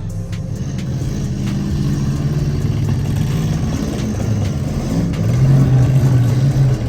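Demolition derby cars' engines running and revving, their pitch shifting as the drivers push on, growing louder about five seconds in.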